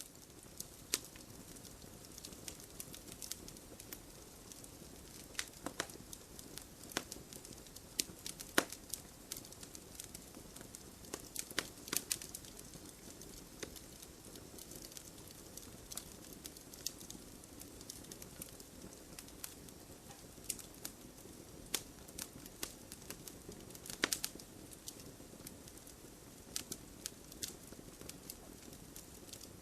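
Fire in a fireplace crackling, with irregular sharp pops over a steady low hiss; a few pops stand out louder.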